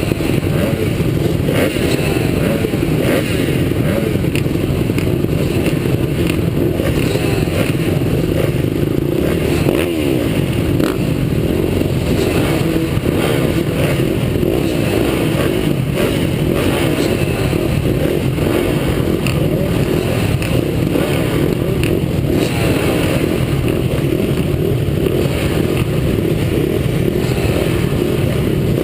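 Motocross bikes running on the track, their engines revving, with overlapping pitches rising and falling. It holds steady and loud throughout.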